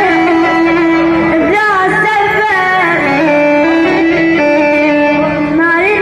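Arabic song with a male singer's voice and instrumental backing, moving through long held notes with ornamented bends.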